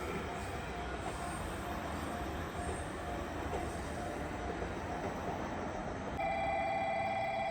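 Electric train running along the rails at a station, a steady rumble with a faint on-and-off wheel squeal. About six seconds in, it cuts abruptly to a steady warbling electronic bell, like a platform's train-approach warning.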